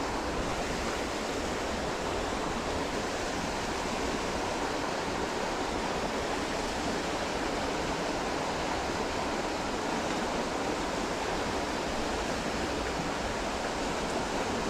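Steady rush of fast-flowing creek water, swollen and running high after a hurricane.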